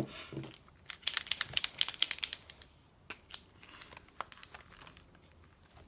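Paper crinkling and rustling as paper pieces are handled. A fast crackly run lasts about a second and a half, followed by a few single ticks.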